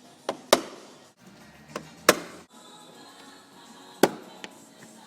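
Three pairs of sharp plastic knocks as parking sensors are pushed and snapped into their holes in a car bumper, each pair a fraction of a second apart.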